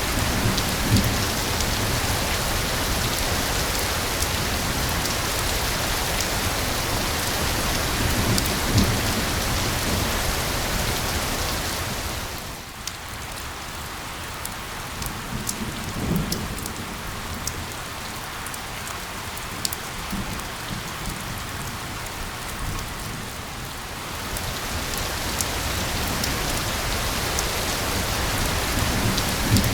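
Steady rain falling, a dense rushing hiss. About twelve seconds in it eases to a softer fall in which single drops tick out clearly, then builds back up near the end. A few brief low thuds sound under it.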